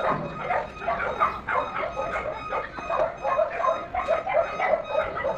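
Chickens clucking, with many short calls repeating and overlapping.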